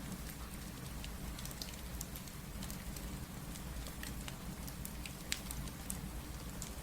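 Steady rain with the crackle of a wood fire: an even rushing hiss and low rumble, with irregular sharp pops scattered through it, one louder pop about five seconds in.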